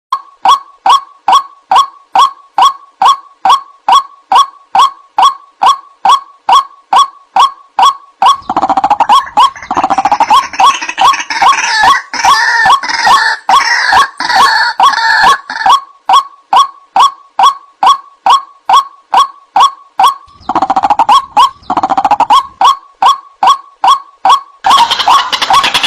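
White-breasted waterhen (ruak-ruak) calling: a loud, evenly repeated note, about three a second. After about eight seconds, and again near the end, harsher overlapping squawks from more birds join in.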